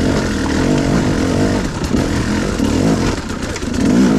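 Enduro motorcycle engine running under the rider's throttle, its pitch rising and falling several times.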